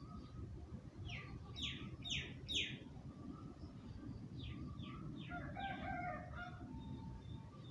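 Birds calling: a run of quick falling high notes, then a second run a couple of seconds later with a lower call among them, over a steady low rumble.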